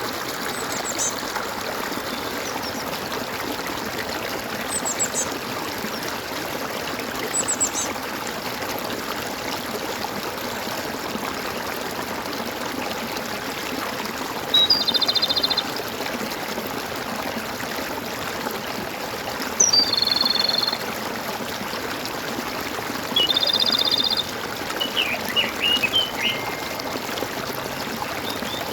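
Steady gurgling of a stream, with birds calling over it: short high downward chirps, a few buzzy trills about a second long, and a cluster of quick chirps near the end.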